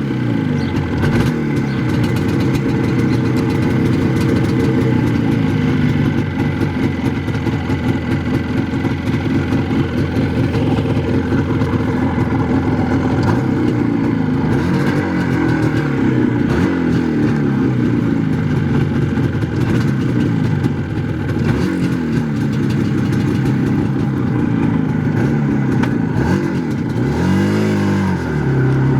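IZh Jupiter-4 motorcycle's two-stroke twin engine running under way, its pitch repeatedly climbing and then dropping back as it revs up through the gears. Near the end the revs fall away and then climb again.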